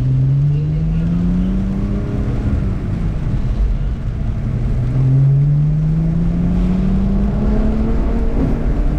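Car engine heard from inside the cabin, pulling hard with the revs climbing. It drops once about three seconds in, as on an upshift, then climbs again in a long pull over steady road noise.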